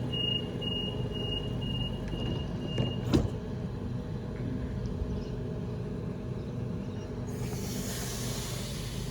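Steady hum of an electric train at a station platform, with a high steady tone for the first three seconds, a sharp click a little after three seconds, and a hiss of air starting about seven seconds in.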